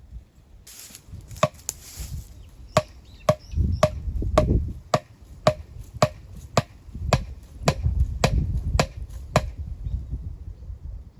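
Wood being chopped with a bladed hand tool: a run of sharp blows, about two a second, each with a short ring, stopping shortly before the end.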